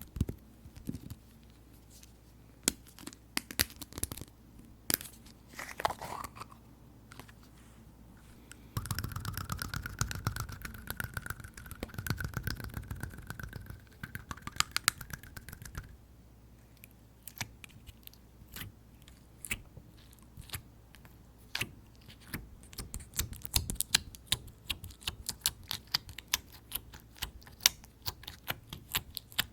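Fingers tapping and pressing tapioca slime, giving sticky clicks and small pops. From about nine to sixteen seconds in there is a longer, denser squishing stretch. Near the end the clicking comes quicker.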